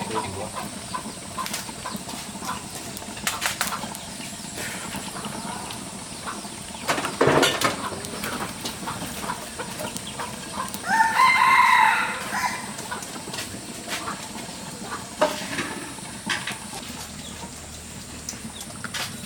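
A rooster crows once, about eleven seconds in, over scattered clicks and knocks. A louder knock comes about seven seconds in.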